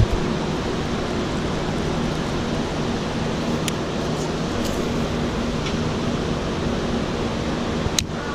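Steady rushing wind-and-water noise on the open water, with a faint low hum underneath and a single click near the end.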